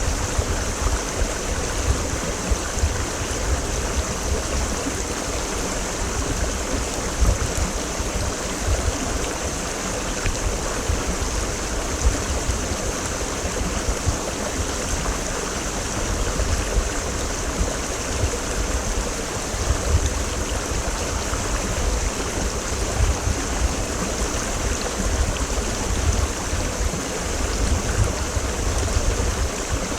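Mountain stream flowing steadily over rocks, a continuous rushing and gurgling of water. Low rumbles come and go underneath.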